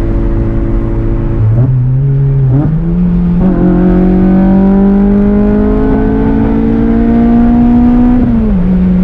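2008 Acura TSX's 2.4-litre K24 four-cylinder engine pulling under load, its note stepping up in pitch twice in the first three seconds, then climbing slowly as the car accelerates and dropping near the end. A steady rush of road and tyre noise runs underneath.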